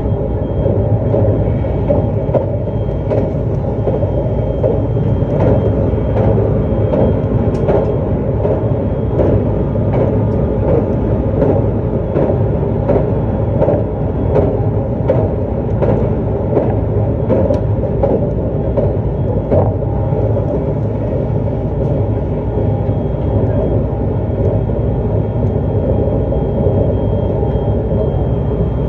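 JR East E259 series Narita Express electric train running at a steady speed: a continuous rumble of wheels on rail, broken by frequent short clacks over rail joints, with a faint steady high tone above it.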